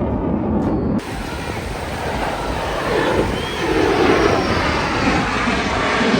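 Airplane engine noise from an aircraft flying over, an even rushing sound that cuts off abruptly about a second in and then grows louder again over the next few seconds.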